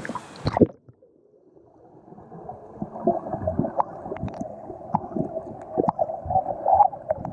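Microphone under water: a splash as it goes under, then muffled gurgling and bubbling with dull knocks, all the high sounds cut off.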